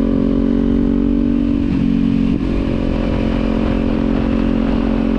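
Kawasaki Z400 parallel-twin engine and exhaust running steadily under way, with a brief change in engine note about two seconds in.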